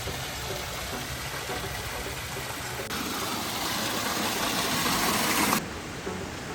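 Rushing water of a stream or small waterfall, a steady hiss. It gets louder about three seconds in and drops suddenly near the end.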